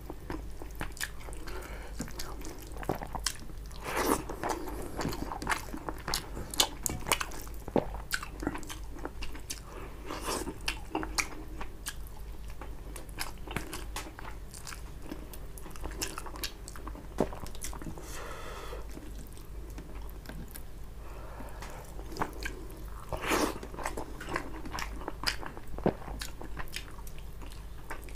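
Close-miked eating sounds of fish curry and rice eaten by hand: wet chewing with many sharp clicks and crisp crunches.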